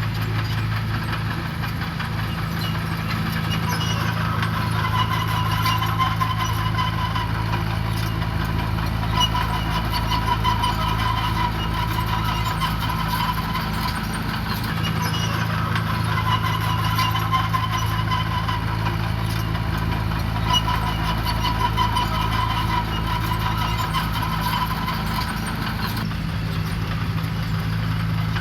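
Diesel engine of heavy earthmoving machinery running steadily, with a higher whining tone that swells and fades every few seconds.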